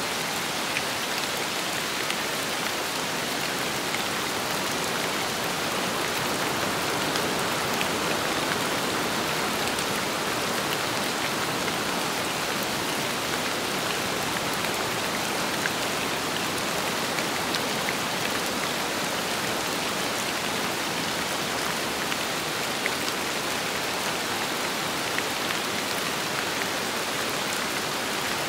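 Steady rain falling, a constant even hiss with many scattered drops ticking through it.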